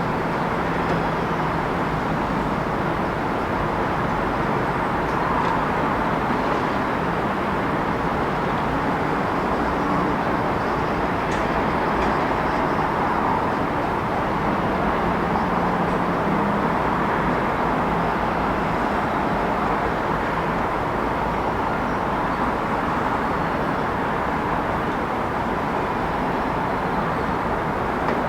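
Steady city ambience: a continuous rumble of passing vehicles, with a faint low engine hum rising and fading now and then.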